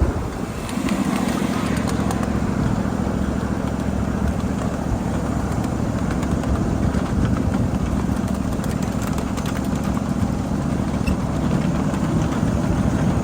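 A 7.5-inch gauge ride-on miniature train running along the track: a steady low hum with rolling wheel noise, settling in about a second in.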